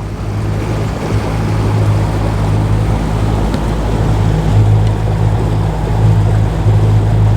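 A motorboat's engine running with a steady low hum, under a rushing wash of water and wind.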